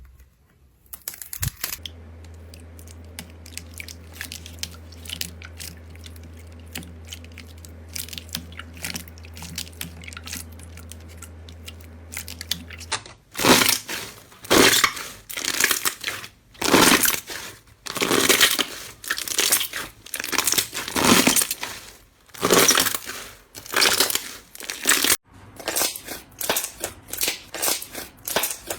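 Slime being worked by hand, crackling and crunching. For the first half it is faint small crackles over a low steady hum; then, about halfway through, come loud squishing, crunching presses, roughly one a second.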